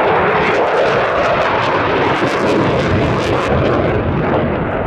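Eurofighter Typhoon FGR4 jet fighter's twin EJ200 turbofan engines making a loud, steady roar in flight, easing slightly near the end.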